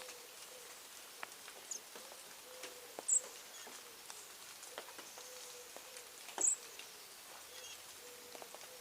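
Birds at a feeding spot: scattered light taps and clicks, with two short, very high chirps about three seconds and six and a half seconds in.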